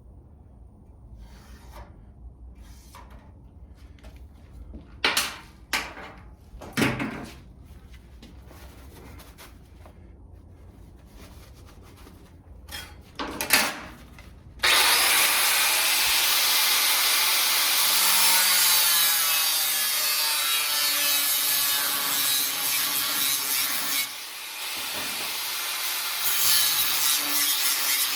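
A power tool abrading or cutting the car's sheet-metal body during rocker panel repair. It starts suddenly about halfway through, after a few short knocks, and runs loud and steady, easing off briefly near the end.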